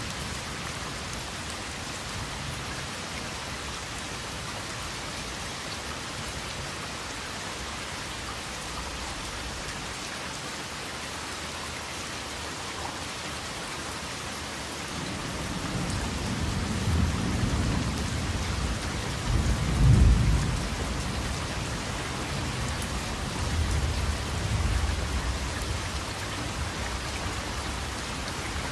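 Steady rain falling, with a rumble of thunder building about halfway through, peaking in a loud roll about two-thirds of the way in and then fading.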